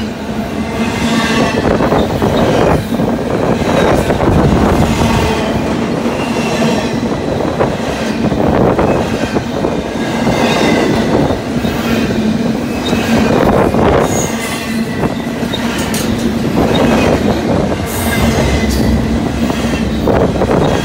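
Double-stack intermodal freight train's loaded well cars rolling past close by: loud, steady rumble of steel wheels on rail, with clatter that swells and eases every couple of seconds as wheel sets go by and a steady tone underneath.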